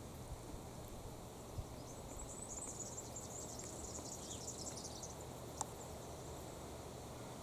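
Quiet outdoor ambience: a steady low rumble, with a faint, high, rapid chattering trill for a few seconds in the middle and one sharp tick near the end.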